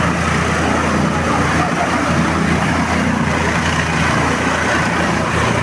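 Rescue helicopter running close by: a loud, steady drone of engine and rotor noise.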